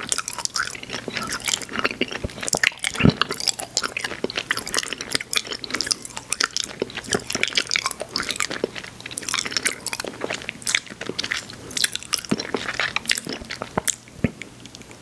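Close-miked mouth sounds of chewing Airheads Xtremes sour chewy candy: a dense, irregular run of wet smacks and clicks, with one louder knock about three seconds in, thinning out near the end.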